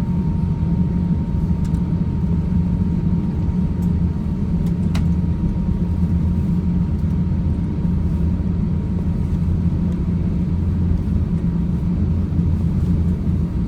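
Steady low rumble of an Airbus A350-900 airliner cabin on the ground, with a faint steady tone running through it and a single click about five seconds in.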